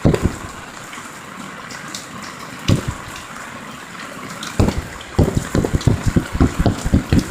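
Heavy pouring rain with water gushing, a steady hiss throughout. Dull thumps sound at the start and once near the middle, then come in a fast run of about a dozen through the second half.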